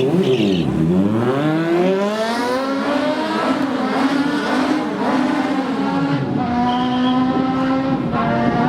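Drag-racing superbike engine revving hard, its pitch swinging up and down several times and then held at steady high revs.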